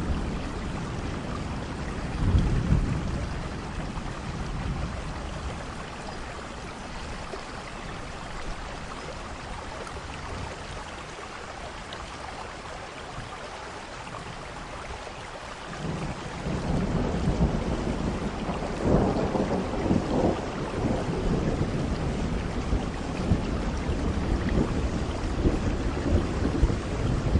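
Steady rain falling, with thunder rolling: a short rumble about two seconds in, then a longer, louder roll that builds a little past halfway, peaks soon after and keeps rumbling on.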